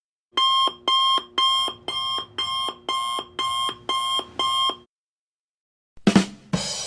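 Electronic alarm clock beeping, nine pulses at about two a second. About six seconds in, two sharp hits and a noisy burst begin the next effect.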